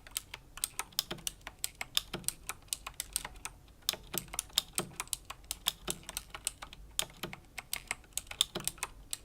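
Razer Green clicky mechanical key switches on a Razer BlackWidow Chroma V2 keyboard, typed at an unhurried pace. The keys give a steady, irregular stream of sharp clicks, with a deeper thud about once a second.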